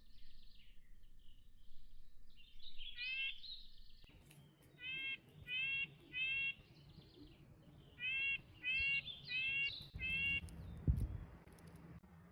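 White-breasted nuthatch calling: about eight short single notes in loose groups of two to four, with fainter chirps at the start. A brief low thump near the end.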